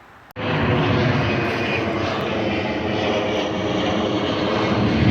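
Airplane engine running loud and steady, cutting in suddenly about a third of a second in and growing slightly louder toward the end.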